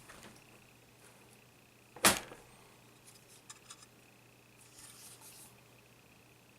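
Handling of laptop parts during disassembly: one sharp, loud click about two seconds in, then a few faint ticks and a brief rustle near the end.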